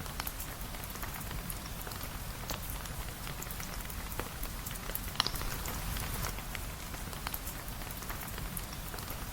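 Steady rain falling on a cabin, an even hiss dotted with scattered sharp ticks.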